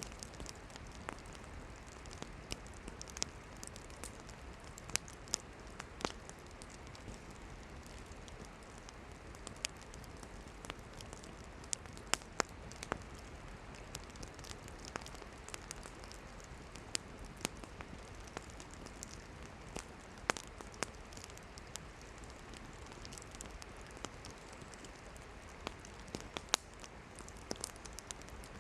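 Wood campfire burning, with irregular sharp crackles and pops over a steady soft hiss of flame.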